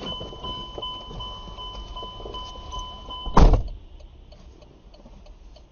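A steady electronic beep tone sounds over car noise, then about three and a half seconds in a loud crash of a vehicle collision cuts it off, leaving faint road noise.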